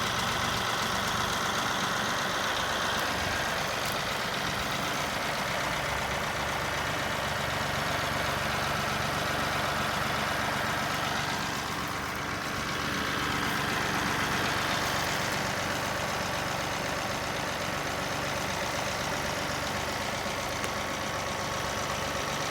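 John Deere tractor's engine running steadily while the loader works, with a brief drop in level about halfway through.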